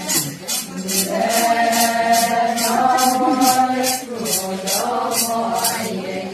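Group chanting in chorus, Adi ponung singing, over a steady jingling shaker beat of about two strokes a second. The beat and song stop near the end.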